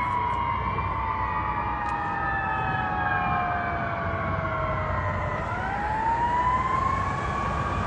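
Fire engine and ladder truck sirens wailing, more than one siren tone at once, over the rumble of the trucks. The pitch falls slowly for about five seconds, then turns and rises again.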